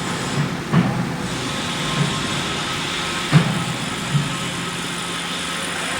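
Steady hum and hiss of a running induction steel-melting furnace, with thin steady tones. A few short, dull knocks at uneven intervals, the loudest about three and a half seconds in.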